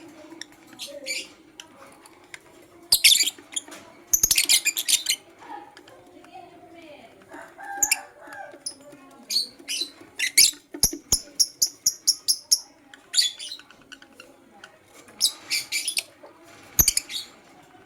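Lovebird chirping: short, sharp, high-pitched chirps in irregular clusters, with a quick run of repeated notes about two-thirds of the way through. A few sharp clicks come between them.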